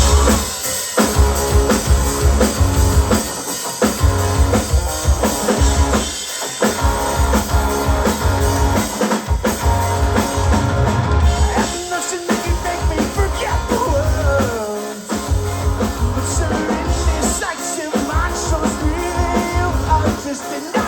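Rock band playing: full drum kit driving a steady beat under electric guitar and bass, with the band briefly dropping out every few seconds.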